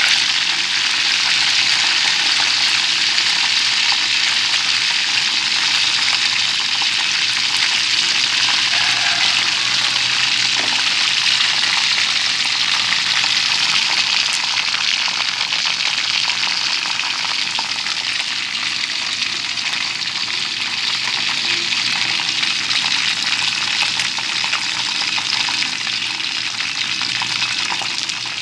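Chicken wings frying in hot oil in a shallow aluminium pan: a steady, dense sizzle that eases slightly over the last part.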